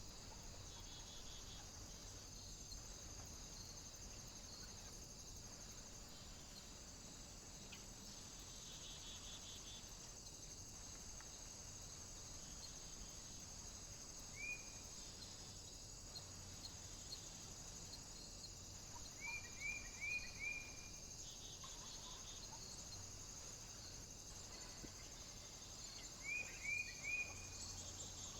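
Small bird giving short chirping call notes: a single chirp about halfway through, then two quick runs of three or four chirps later on, over a steady high-pitched hiss.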